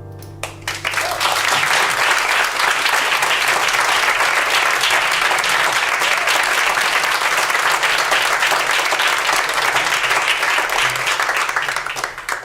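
A song's last held note fades and an audience breaks into applause about half a second in, clapping steadily for roughly twelve seconds before it stops just before the end.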